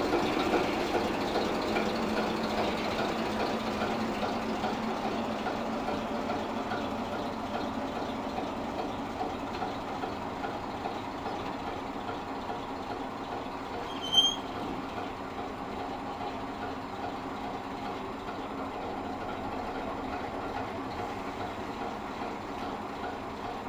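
Class 751 diesel locomotive's engine running steadily, its level slowly easing off, with a brief high squeal about fourteen seconds in.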